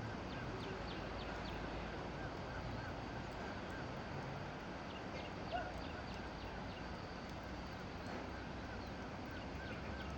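Outdoor ambience with runs of short, repeated high chirping animal calls over a steady background hiss.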